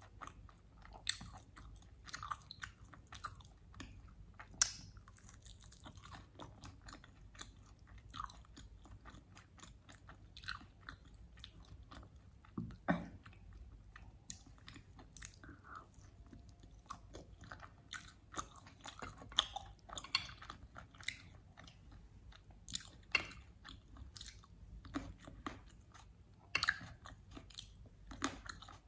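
Biting and chewing mutton chops coated in a sticky, charred sauce: a steady run of irregular short mouth clicks, with a few louder bites.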